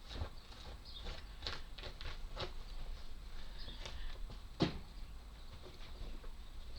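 Scattered light clicks and taps of small laser-cut wooden puzzle parts being handled and fitted together, with one sharper knock about four and a half seconds in.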